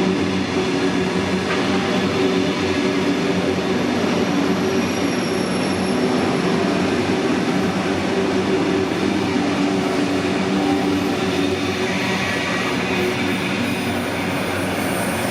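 Sydney Trains Tangara electric train running through the station, a steady loud rumble of wheels and motors with a continuous low hum.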